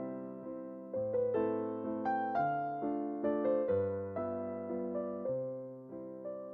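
Background music: a gentle electric piano playing chords and a slow melody, each note struck and fading.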